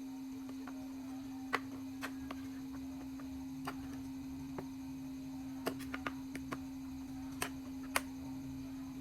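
Scattered light clicks and taps, about a dozen at irregular intervals, over a steady low hum.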